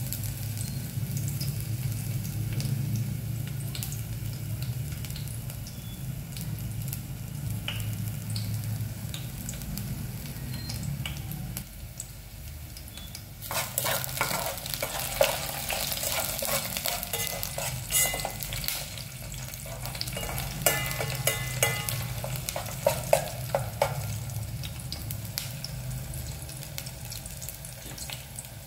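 Chopped garlic and shallots sizzling in oil in an aluminium pot, over a steady low hum. From about halfway in, a spoon stirs and scrapes the pot, bringing louder crackling and several sharp clinks, which ease off near the end.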